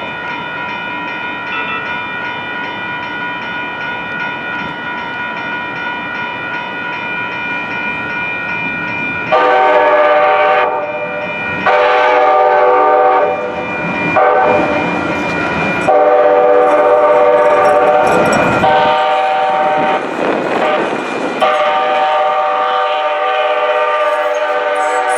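A train's multi-note air horn blowing the grade-crossing signal: two long blasts, a short one, then a long one held for about five seconds. Steady tones and rail noise fill the opening seconds, before the horn.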